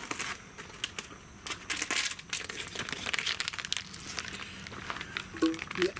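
Packaging being handled, crinkling and crumpling in irregular bursts.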